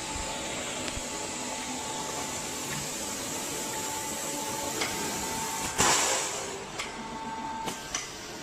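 Machinery of a water heater outer-shell forming line running: a steady mechanical noise with a thin whine, a few sharp clicks, and one loud burst of noise about six seconds in.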